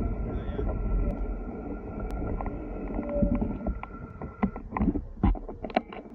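Road and wind rumble while riding a Zero DSR/X electric motorcycle, with a faint steady whine. The rumble eases off as the bike slows to a stop. In the last two seconds come a series of sharp knocks and clicks.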